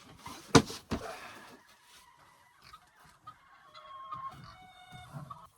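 Two sharp knocks about half a second apart, then chickens clucking softly.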